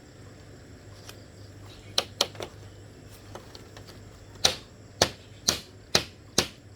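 Sharp tool strikes on bamboo: a quick pair about two seconds in, then a steady run of blows about two a second from the middle onward.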